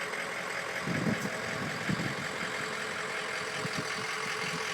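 Ford 6.0 Powerstroke V8 turbo diesel idling steadily, with a few dull low thumps.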